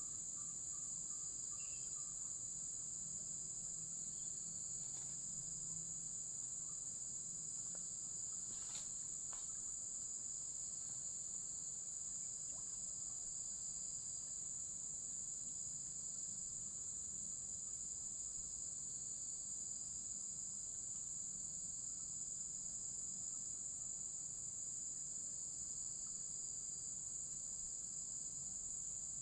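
Steady chorus of crickets, a continuous high-pitched trill, with a couple of faint clicks about nine seconds in.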